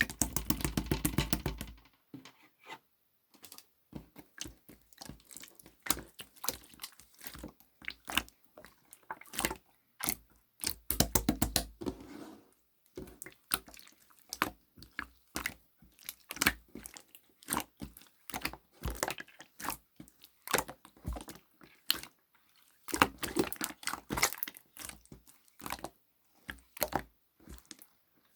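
Coffee-bean slime being squished and stretched by hand, giving dense runs of crackling, popping clicks, thickest at the very start, around the middle and again near the end.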